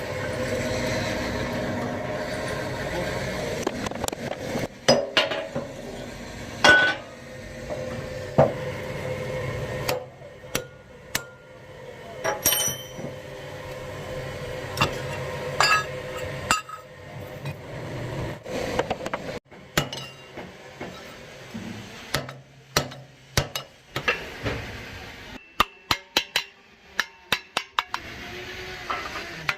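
Hammer blows on metal: scattered ringing strikes at first, then a quicker run of regular blows, about two or three a second, near the end.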